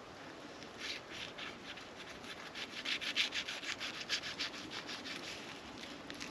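A quick run of rubbing, scraping strokes, about four or five a second. It starts about a second in, grows loudest around the middle and fades near the end.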